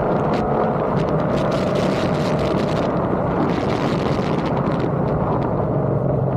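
Ford Coyote 5.0-litre V8 with Kooks headers running at a steady engine speed: a loud, even exhaust drone.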